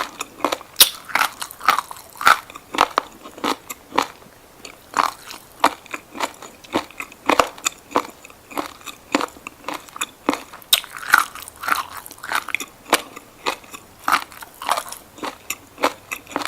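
Close-miked chewing of crunchy colourful seaweed (Eucheuma cottonii): a steady run of crisp, wet crunches, about two a second.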